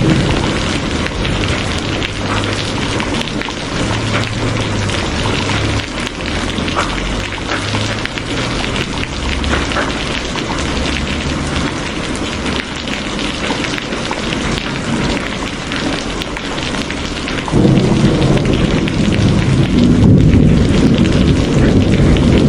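Steady, heavy rain hiss with low pattering underneath. About three-quarters of the way through, a deep low rumble of thunder sets in suddenly and keeps building.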